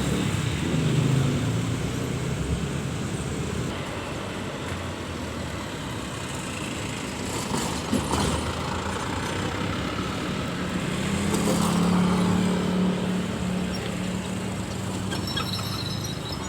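Diesel locomotive engine running with a steady low rumble; its hum grows stronger about eleven seconds in, with a brief metallic clatter about eight seconds in.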